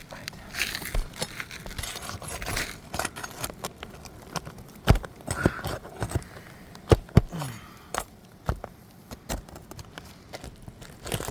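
Hand tools working on asphalt roof shingles: scattered scraping, metallic clinks and a few sharp knocks, two of them close together about seven seconds in.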